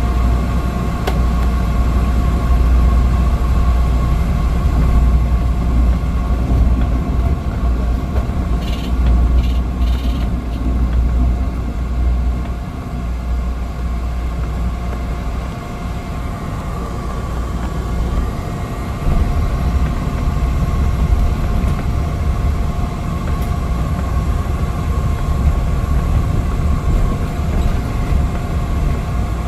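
Cabin noise of a Cessna 208 Caravan's single turboprop engine and propeller: a loud, steady drone with a heavy low rumble and a steady whine held at two pitches. The rumble eases a little past the middle and then comes back.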